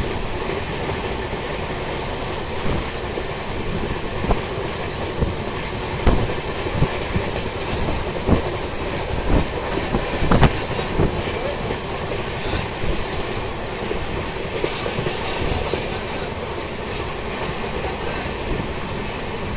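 Passenger train running at speed, a steady rolling rumble with its wheels clacking over rail joints at uneven intervals, a few knocks louder than the rest about 6, 8 and 10 seconds in. Heard from an open coach doorway.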